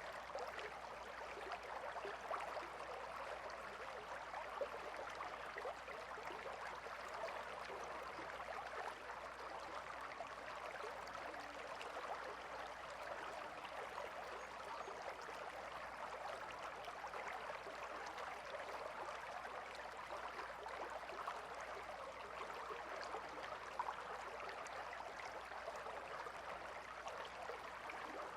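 River water flowing steadily with a fine, even babble.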